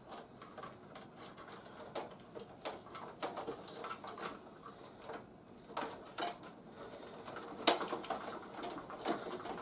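Hard plastic toy parts clicking and rattling as they are handled and fitted, with one sharper snap near the end.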